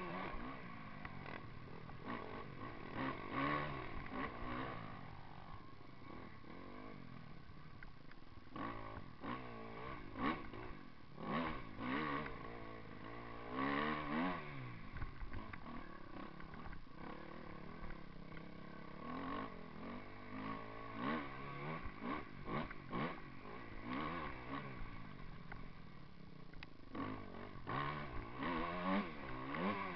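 Motocross bike engine revving up and dropping back again and again as it is ridden, with a cluster of quick, sharp blips of throttle about a third to halfway through.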